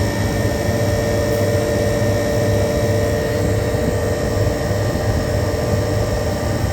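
Refrigeration condensing unit running steadily, its compressor and condenser fan making a constant drone with a steady hum.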